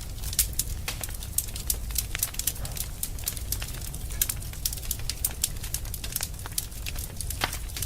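Wood fire crackling in a fireplace: irregular sharp pops and snaps, several a second, over a low steady rumble, with one heavier pop near the end.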